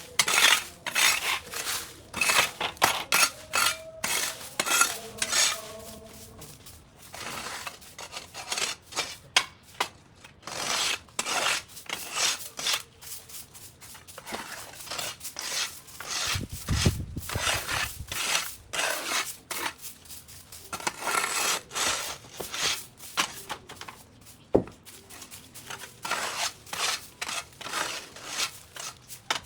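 Rapid, irregular clattering and scraping strikes, with a brief low rumble about seventeen seconds in.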